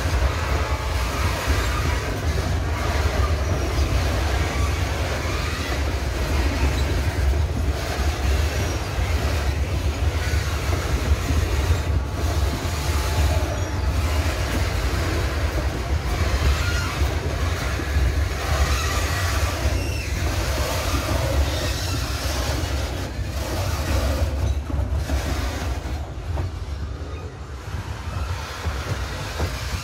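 Loaded freight train of cement hopper wagons rolling past on the rails: a steady low rumble with clicks of wheels over the rail joints and short wheel squeals. It grows quieter near the end as the last wagon passes and moves away.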